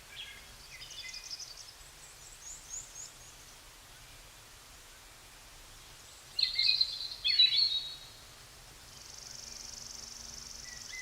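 Wild songbirds chirping and singing in short phrases, with a louder burst of song around the middle. A steady high-pitched buzz runs through the last couple of seconds, over a faint outdoor rumble.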